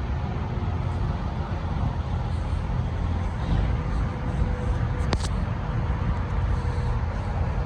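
A car driving at highway speed in heavy rain: a steady low road rumble under a hiss of rain and tyre spray, with one sharp click about five seconds in.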